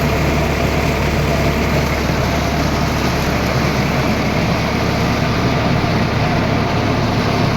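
Tractor engine running steadily at constant speed, powering a rice mill.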